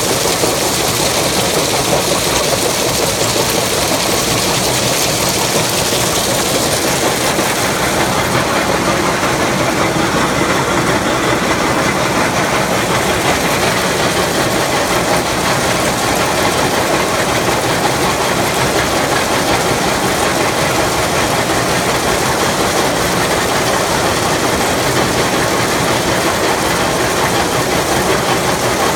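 Yongwon Super Cone SP400 cone crusher running in an aggregate crushing plant, crushing rock: a loud, dense, steady machinery noise.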